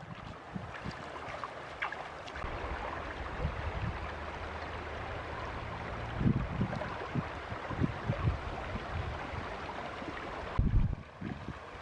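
Flowing river water, a steady rushing, with a few short low thumps about six seconds in and again near the end.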